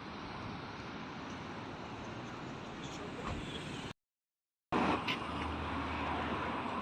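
Steady hum of road traffic noise. It cuts to total silence for nearly a second about four seconds in, then resumes slightly louder.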